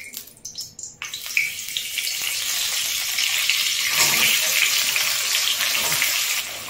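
Bay leaves and chopped onion sizzling in hot mustard oil in a kadai. The sizzle starts suddenly about a second in as the bay leaves hit the oil and grows louder about four seconds in as handfuls of onion are dropped in.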